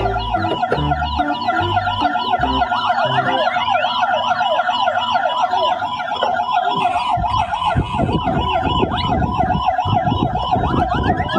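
Electronic emergency-vehicle siren of the yelp kind, its pitch sweeping quickly up and down several times a second.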